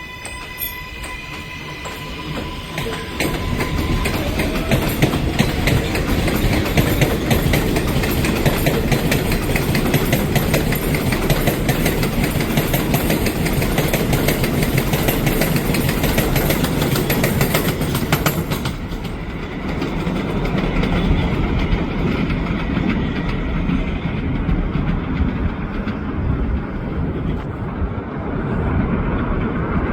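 New York City subway train on the 7 line's elevated track: a rising motor whine at the start, then loud rolling rumble and rapid clattering of wheels over the rail for about fifteen seconds, easing a little about two-thirds of the way through and going on to the end.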